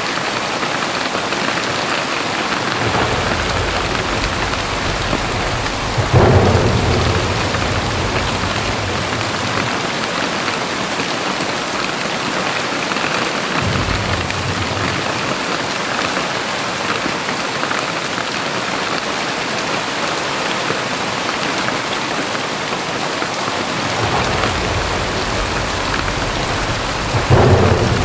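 Very heavy rain pouring steadily, with deep rumbles of thunder rolling under it: a sudden loud clap about six seconds in that rumbles on for several seconds, a short rumble midway, and another building near the end to a sharp clap.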